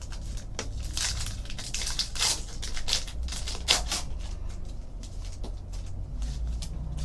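Baseball trading cards being handled and flipped through: a run of short, irregular swishes and rustles of card stock and wrapper.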